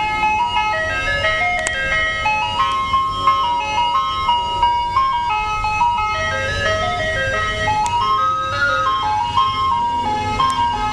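Ice cream truck jingle: a tinkling chime melody of short notes stepping up and down, over the low steady rumble of the truck's engine.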